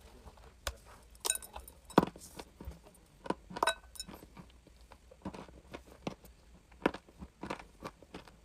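Close-up crunching as chalk is bitten and chewed: irregular sharp crunches and clicks, the loudest about two seconds in.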